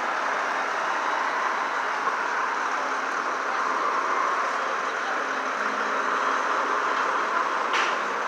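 Heavy trucks running at a street scene, a steady engine and traffic noise, with a short hiss near the end.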